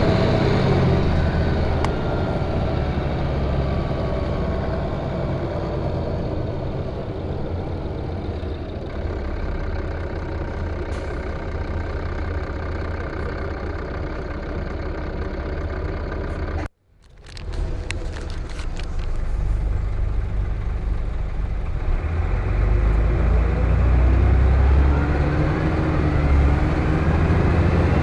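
Van Hool A320 city bus heard from inside the cabin, its engine and drivetrain droning. The whine falls in pitch during the first few seconds, holds fairly steady, and cuts out sharply about two-thirds of the way through. It then comes back with a few clicks and whines rising in pitch again near the end as the bus pulls away.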